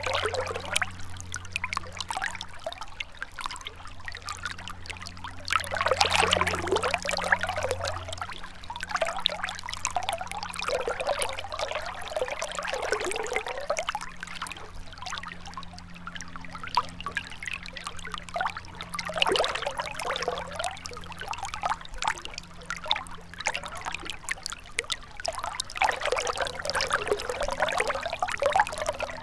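Gentle river flowing, its water trickling steadily and swelling louder in surges every several seconds.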